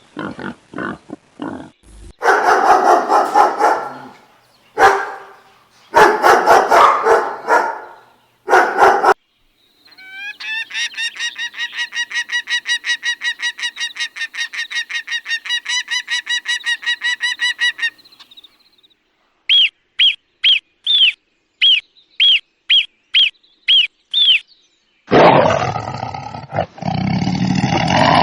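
Calls of several different animals one after another. Short grunts at the start give way to a few loud harsh calls. Then comes a fast run of repeated pitched calls, about four a second for several seconds, then about ten short high chirps, and near the end a loud, rough, drawn-out call begins.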